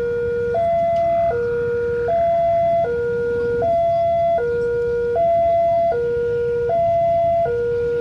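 Railway level-crossing warning alarm sounding: an electronic two-tone signal alternating steadily between a higher and a lower note, each held about three-quarters of a second, warning of an approaching train. A low rumble runs underneath.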